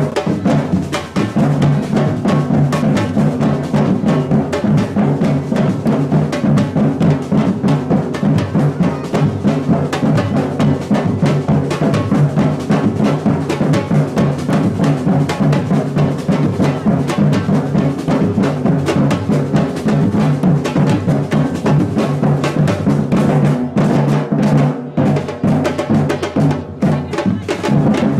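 Batucada samba drum ensemble playing a continuous loud rhythm: deep bass drums under dense, fast strokes of snare and higher drums.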